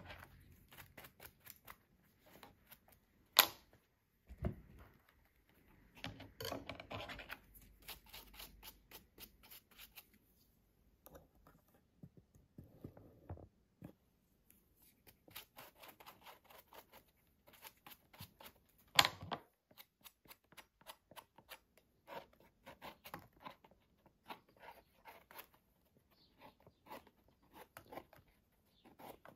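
Hands cleaning and sorting fresh wild mushrooms: a run of light scraping, rubbing and clicking sounds, with a sharper knock about three seconds in and another a little past halfway.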